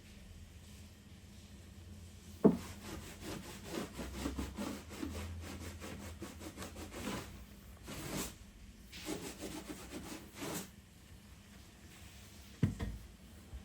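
A hand tool rubbing back and forth over a surface in quick repeated strokes for several seconds, with a brief pause partway through. A sharp knock comes just before the strokes start, and another near the end.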